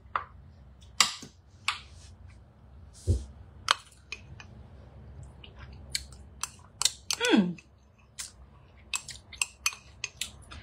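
A person eating a spoonful of palak tofu: scattered wet mouth clicks and smacks of chewing, a low thump about three seconds in, and a short hum of the voice falling in pitch about seven seconds in.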